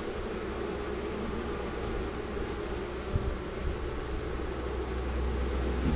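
Honey bees buzzing around a hive box, a steady low hum of many wings.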